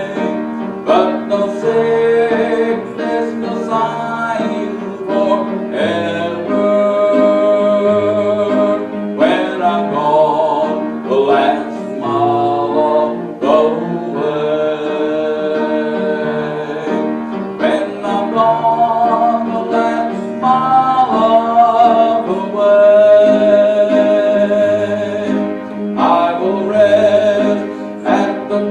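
Hymn music: singing with instrumental accompaniment, moving from note to note over a steady bass.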